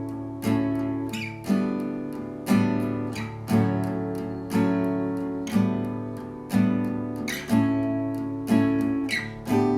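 Acoustic guitar in drop-D tuning (D A D G B E) strummed about once a second, each chord ringing out and fading before the next: the instrumental opening of the song, before the singing comes in.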